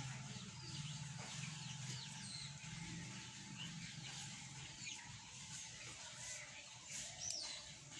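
Birds chirping over and over in short, quick, falling chirps, over a low steady hum.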